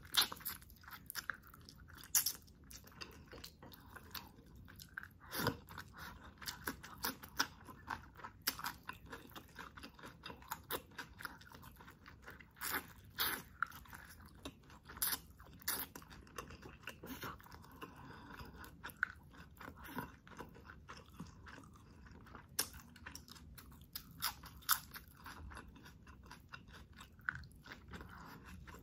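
Close-miked chewing and biting as a person eats saucy chicken adobo by hand, pulling meat off the bone, with irregular sharp crunches and wet mouth clicks several times a second.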